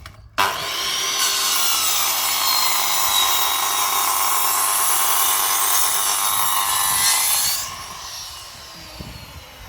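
Electric power saw cutting wooden slats: a loud, steady cutting noise with a high whine that starts suddenly about half a second in and drops off about seven and a half seconds in.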